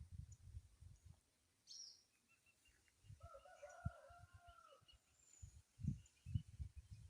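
A rooster crowing once, faintly, for under two seconds midway through, its call trailing down at the end. Around it are repeated low thumps and rumbles and a few faint small bird chirps.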